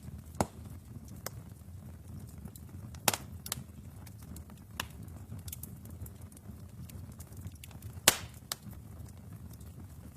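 Wood fire burning in a fireplace: a steady low rumble of flames with sharp, scattered crackles and pops, the loudest pop about eight seconds in.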